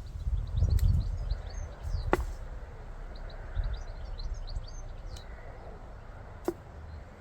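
Two sharp snips of pruning shears cutting rose stems, about four seconds apart, with small birds chirping in the background. A low wind rumble on the microphone fades after the first second or so.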